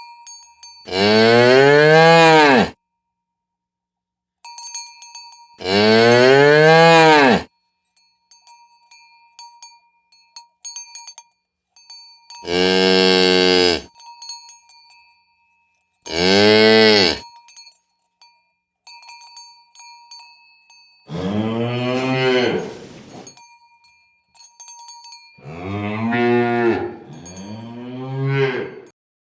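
Cows mooing: a series of about seven long, loud moos, each rising then falling in pitch, the last two close together. Cowbells clink faintly between the moos.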